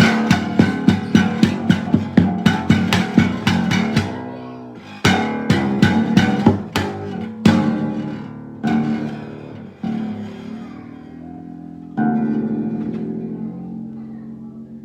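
Ukulele being strummed. About four quick, even strums a second for the first few seconds, then slower single chords, each left to ring and fade.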